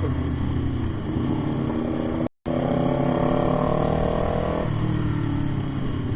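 Motorcycle engine running under way, its note held higher for a couple of seconds and then dropping about two-thirds of the way through. A very brief gap in the sound about a third of the way in.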